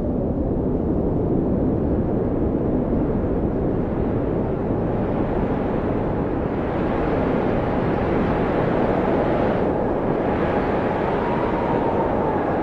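Blizzard wind howling steadily: a low, rushing roar with a faint whistling tone that slowly rises and falls, growing hissier about halfway through.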